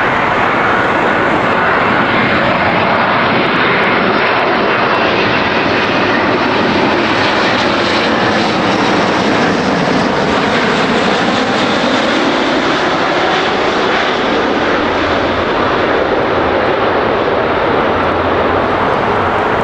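Jet airliner's engines passing close by: a loud, steady rushing roar that brightens to a peak about halfway through, then eases as the plane moves away.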